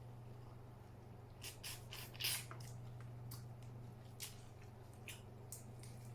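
Eating sounds close to the microphone: scattered crisp crackles and wet clicks from shell-on seafood-boil shrimp being eaten, densest about a second and a half in, over a steady low hum.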